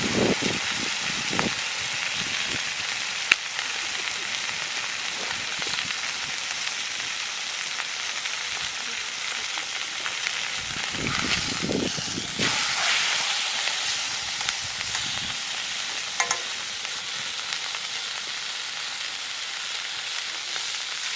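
Food sizzling steadily in a frying pan over a campfire, with a few short knocks and clicks of utensils on the pan.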